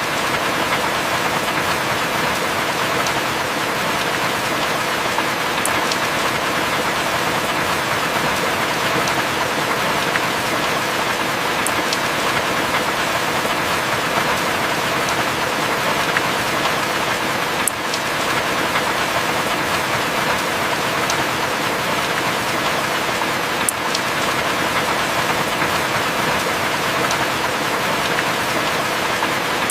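Heavy rain falling steadily, with a few sharp drip ticks about every six seconds. No thunder.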